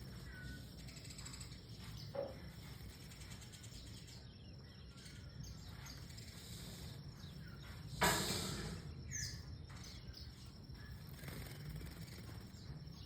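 Young white-rumped shama giving a few short, thin chirps as it bathes, with one loud, brief rush of splashing and wing-fluttering about eight seconds in. A low steady rumble sits underneath.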